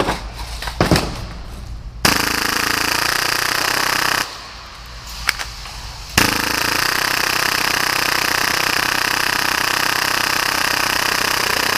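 Full-auto gas blowback Tokyo Marui Hi-Capa airsoft pistol, built for about 30 rounds per second, firing in two continuous bursts: one of about two seconds, then after a short pause a longer one of about six seconds. A light click or two comes before the first burst.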